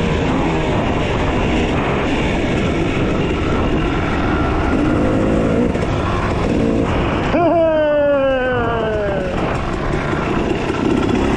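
Trail dirt bike engines running under a steady rushing noise while riding. About seven seconds in, a sharper engine note cuts in and falls steadily in pitch for about two seconds.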